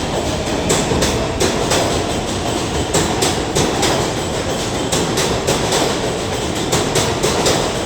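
New York City Subway 7 train running on the track, its wheels rumbling with a stream of irregular clicks over the rail joints.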